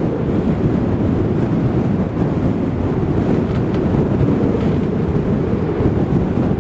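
Strong wind buffeting the microphone: a loud, low rumble that rises and falls without any clear tone.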